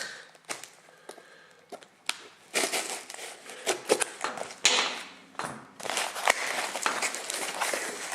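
A mail package being opened by hand: crinkling and crackling of cardboard and packing material, with sharp clicks and rips. It starts sparse and quiet, and it gets busier and louder from about two and a half seconds in.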